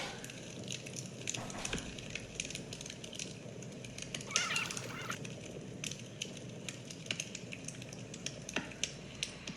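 Wood fire crackling, with irregular sharp pops and cracks over a low hiss. A brief higher-pitched sound comes in about four and a half seconds in.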